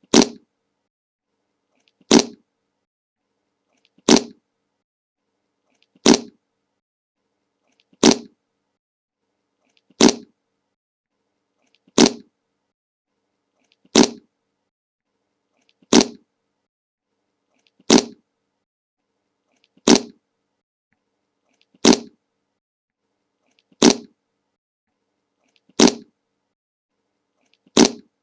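The same short fart sound effect, repeated about every two seconds with silence between, each one brief and identical to the last.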